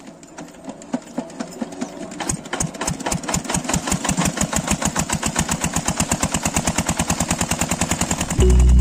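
A small electric motor running with a rapid, even ticking of about ten a second that grows gradually louder.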